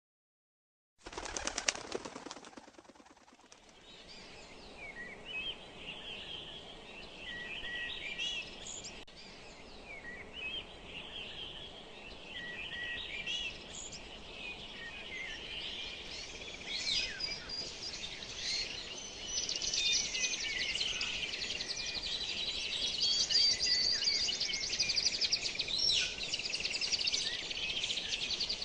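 Many small birds chirping and trilling together in a dense chorus that grows fuller and louder after about halfway, with a brief rattling rush of noise about a second in.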